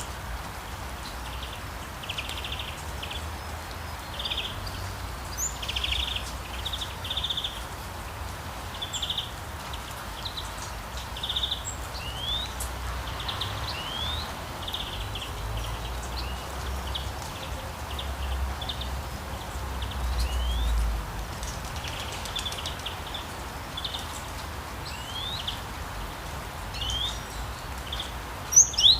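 Steady light rain with several birds chirping over it: repeated short trills and quick rising whistled notes throughout. A low rumble runs underneath and swells about two-thirds of the way through.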